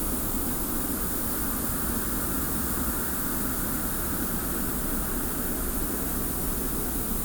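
Steady desert wind with a fine hiss of blowing sand over a low rumble, unchanging throughout.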